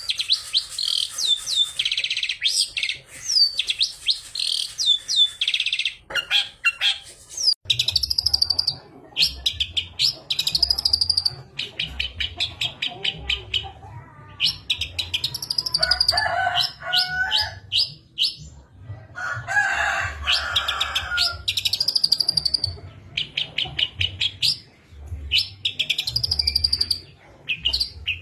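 Long-tailed shrike singing a fast, high string of hooked and chattering notes, mixing imitated calls of other birds into its song. A lower, rougher call comes in twice around the middle.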